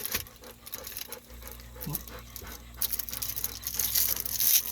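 Golden retriever panting.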